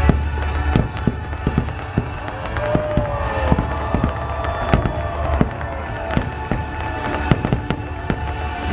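A fireworks display going off over loud show music: many sharp bangs and cracks, several a second, over a deep rumble.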